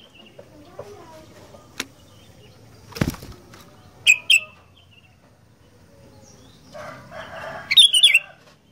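Sooty-headed bulbul (kutilang) fluttering its wings and giving short, sharp calls: two quick calls about four seconds in and a louder burst of calls near the end. There are a couple of sharp knocks before them.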